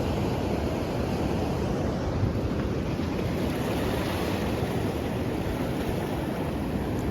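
Steady rushing noise of ocean surf and wind, with wind rumbling on the microphone.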